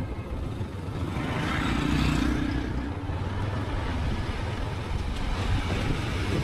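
Road vehicle engine and tyre noise: a steady low rumble, with a humming tone swelling briefly about two seconds in.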